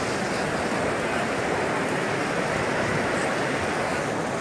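Heavy rain falling steadily, an even wash of noise that does not let up.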